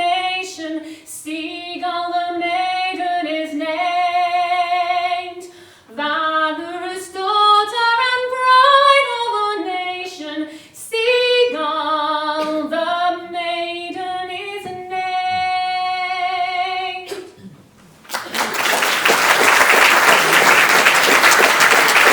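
A woman sings the last phrases of a folk song unaccompanied, ending on a long held note. About eighteen seconds in, audience applause breaks out and is louder than the singing.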